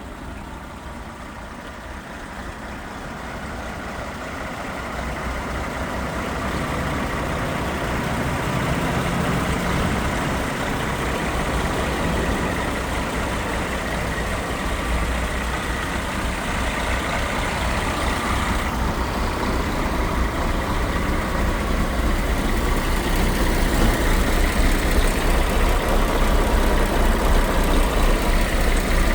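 Scania R420 truck's 12-litre inline-six diesel engine (DT12 14) running steadily, growing gradually louder.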